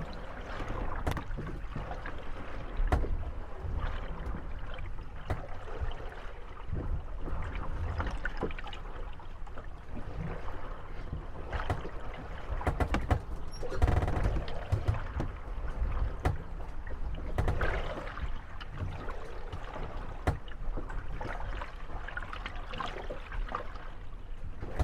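Moored wooden gondolas rocking on the waves, their hulls knocking and creaking against one another over sloshing water, with frequent irregular knocks that bunch up and grow louder about halfway through.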